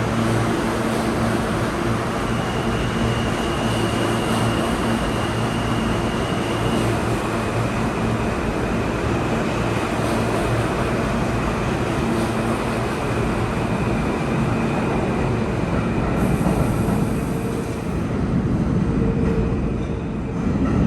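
R160 subway train running through the tunnel, heard aboard: a steady rumble of wheels on rail with the steady hum and high whine of its traction motors.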